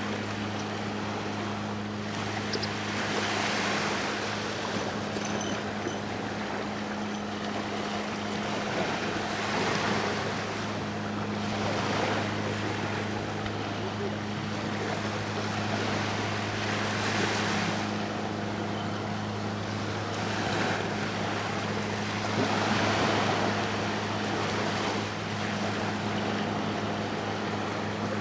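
Sea waves washing ashore, swelling and falling back every few seconds, over a steady low hum from a boat's engine.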